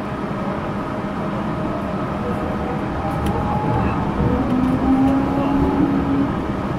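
Yurikamome rubber-tyred automated guideway train running on its elevated concrete guideway, heard from inside the car: a steady rumble of the running gear that grows a little louder in the second half.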